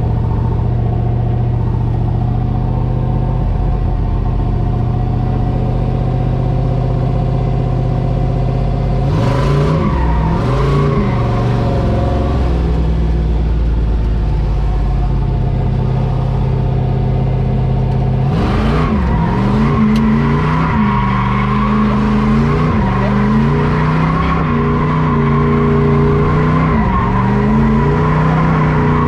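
Drift truck's engine running steadily, then revving up and down while drifting, briefly about nine seconds in and in repeated rises and falls from about eighteen seconds on. Tyre squeal starts each time the revving begins, as the rear tyres break loose.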